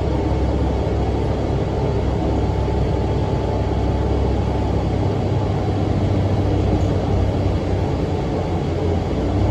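Cummins ISM diesel engine of a NABI low-floor transit bus running with its engine cooling fan on: a steady low drone whose deepest note shifts a little about halfway through.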